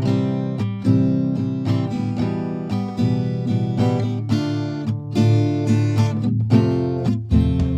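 Background music: a strummed acoustic guitar starting abruptly at full level.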